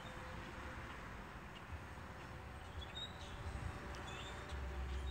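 Outdoor background hiss with a few short, high bird chirps in the middle, and a low rumble, like wind on the microphone, that comes in near the end.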